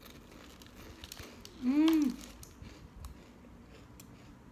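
A woman's short hummed "mmm" of enjoyment while eating, rising then falling in pitch, about two seconds in, among faint clicks.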